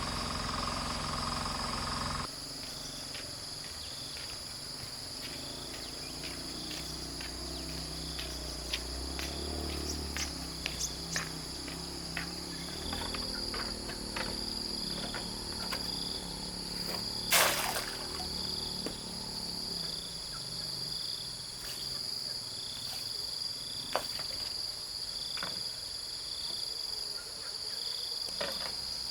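Insects and crickets chirping steadily in a high drone, with regular short chirps over it. Scattered sharp clicks and knocks break in, one louder knock about seventeen seconds in.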